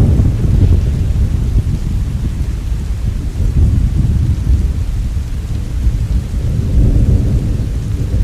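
Thunder rumbling low and long, swelling again about seven seconds in, over steady falling rain.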